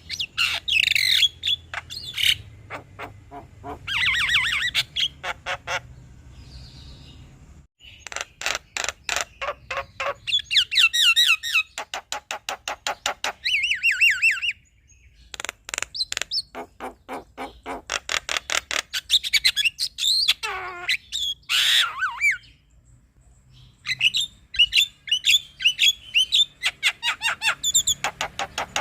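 Male Javan myna singing: phrases of fast rattling clicks and chatter mixed with whistled, gliding notes, broken by short pauses.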